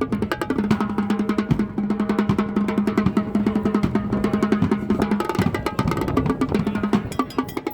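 Drumline playing fast snare-drum strokes, about ten or more a second, over a held low tone that breaks off about five seconds in.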